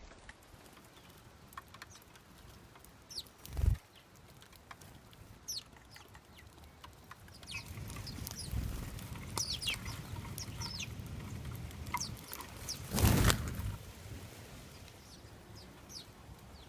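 Backyard birds making short, scattered high chirps, with a low rumble underneath for several seconds. A low thump comes about 4 s in, and a loud, brief burst of noise, the loudest sound, comes about 13 s in.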